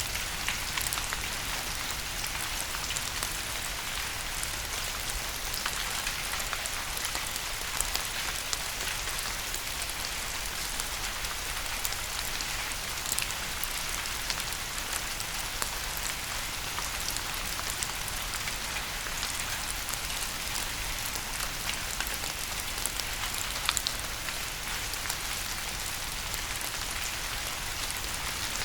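Steady rain falling on a surface, an even hiss sprinkled with many separate drop taps.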